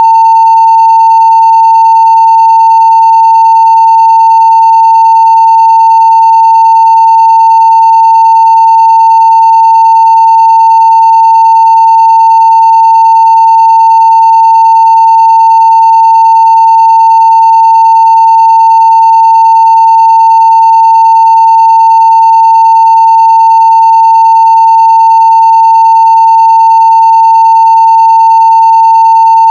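Steady 900 Hz sine-wave test tone at full scale (0 dB), one continuous pitch with no breaks, carrying faint higher overtones.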